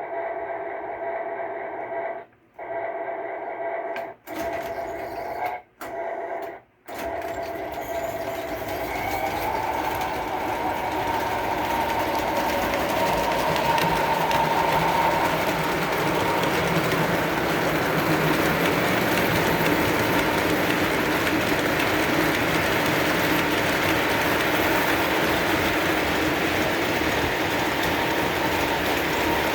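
Lionel O-gauge Santa Fe Warbonnet diesel locomotives with Railsounds starting a run: a steady hum that cuts out briefly four times in the first seven seconds, then the train gets moving and its motors and wheels on the track run on, growing louder over the next several seconds and staying steady.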